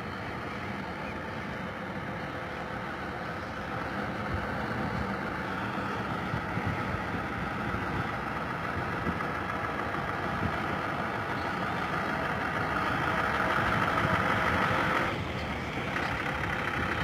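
Heavy truck engine and tyres growing steadily louder as the truck approaches, then dropping off sharply near the end.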